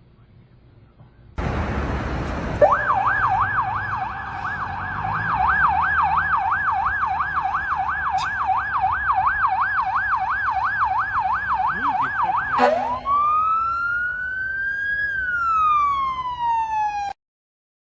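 Emergency vehicle siren in a fast yelp, its pitch going up and down about two and a half times a second, over steady background noise. Near the end it switches to a slow wail that rises and then falls, and the sound cuts off suddenly.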